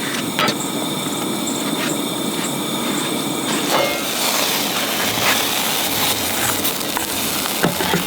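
A quesadilla frying in a non-stick pan on a camp stove: a steady sizzle, with a few light clicks of a utensil against the pan.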